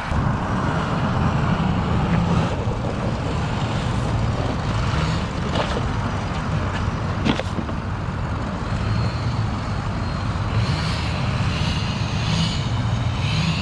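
Street-legal monster truck's engine running steadily as it is driven, a continuous low drone with a few short clicks and some higher rattling near the end.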